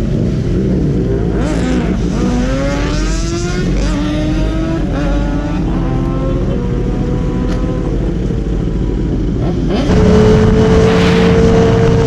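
Motorcycle engine accelerating through the gears, its pitch climbing and dropping back with each shift. About ten seconds in, a louder, steady high-revving engine sound comes in.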